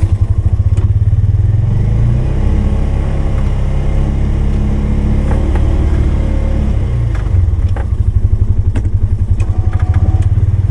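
Polaris 570 ATV's single-cylinder engine running with a rapid low pulse, its pitch rising and falling slightly as it plows snow. A few short clicks and clanks sound over it.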